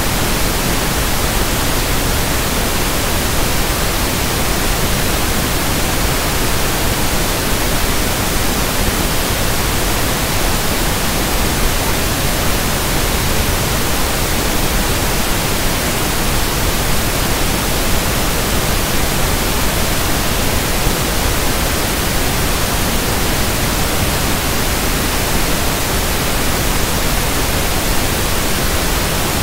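Steady synthetic pink noise (1/f noise): an even, unchanging hiss spread across all pitches.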